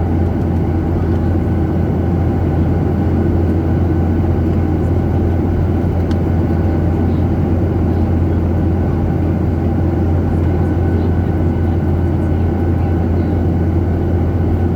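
Steady low drone of an airliner's jet engines and airflow heard from inside the passenger cabin, unchanging in pitch and level.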